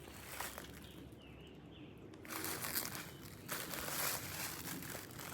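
Rustling and crunching of footsteps through dry forest-floor litter, starting about two seconds in after a quieter stretch.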